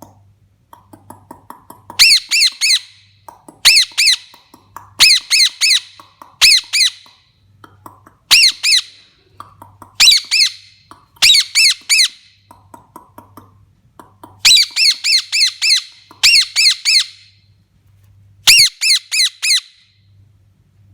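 Pet parrot squawking in about ten loud bursts, each a quick run of three to six shrill notes, with softer calls between the bursts.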